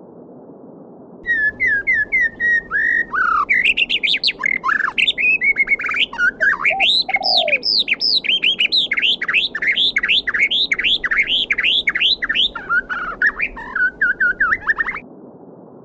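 A songbird sings one long, loud, varied song over the steady rush of a babbling stream. The song starts about a second in and stops just before the end. Its middle is a fast run of repeated whistled notes, each slurring down in pitch.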